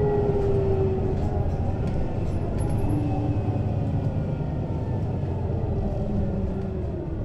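Mercedes-Benz Citaro city bus's diesel engine and ZF Ecomat automatic gearbox running under way, heard from above the engine at the rear. The engine's pitch falls slowly and the sound eases off a little near the end.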